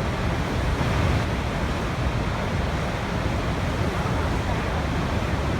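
Waterfall running, a steady rushing water noise that is deepest and strongest in the low end and never changes.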